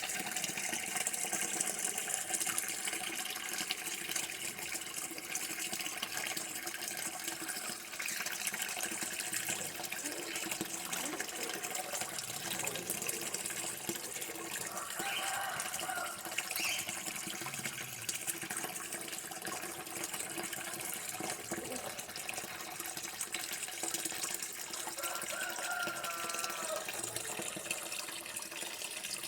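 Water running steadily, like a tap, in an even, unbroken flow. A couple of faint, brief pitched sounds come through about halfway and near the end.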